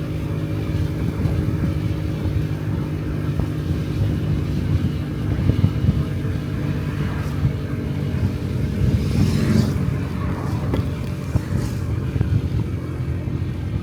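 Honda Dio Cesta 50cc scooter's single-cylinder four-stroke engine running at a steady cruising speed, heard while riding, with wind rushing on the microphone. About nine to ten seconds in there is a brief louder rush of hiss.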